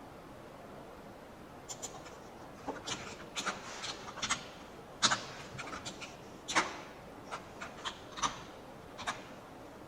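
A string of short, sharp clicks from a computer mouse and keyboard, irregularly spaced, starting about two seconds in, more than a dozen in all.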